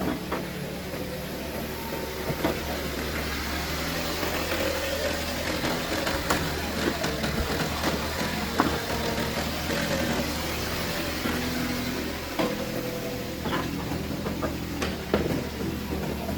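Excavator's diesel engine running steadily, with scattered sharp knocks throughout.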